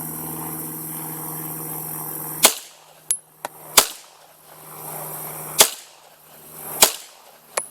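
Taurus PT99 9mm semi-automatic pistol firing four shots of handloaded 125-grain powder-coated lead round-nose ammunition, one to two seconds apart, with lighter clicks between. The pistol cycles each round without a hitch. A steady low hum runs until the first shot.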